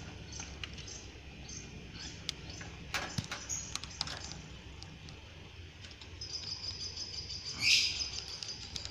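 Lovebird chicks giving short chirps and squeaks, with one louder raspy call near the end. A steady high trill joins in from about six seconds in.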